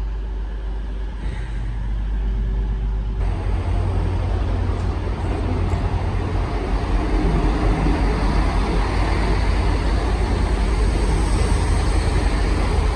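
A train pulling in alongside a station platform. Its rumble and rushing noise jump up about three seconds in and keep growing louder.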